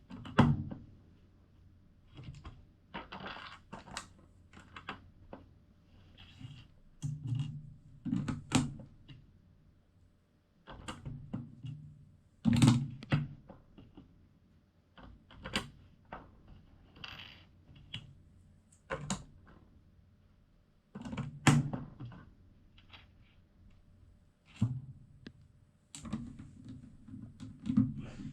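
Plastic LEGO pieces clicking and rattling as they are handled, picked through and pressed together: irregular sharp clicks and short clattering clusters with soft thuds of handling.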